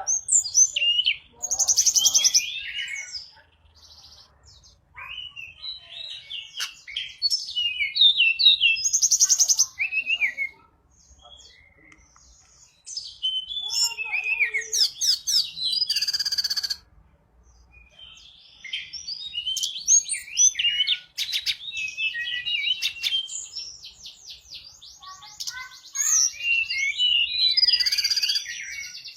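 A tledekan gunung songbird singing in bursts of fast, varied high chirps, trills and rapid buzzy rattles, each burst lasting a few seconds with short pauses between.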